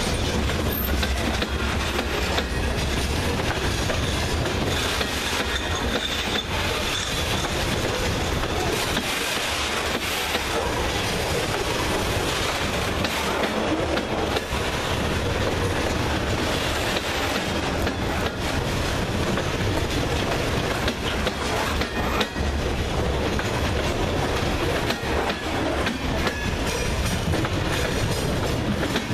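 Freight train's covered hopper cars of grain rolling past close by: a steady rumble of steel wheels on rail with repeated clicking of the wheels over rail joints.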